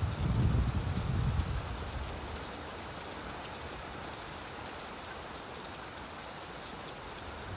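Steady rainfall, with a low rumble of distant thunder fading away over the first second or two.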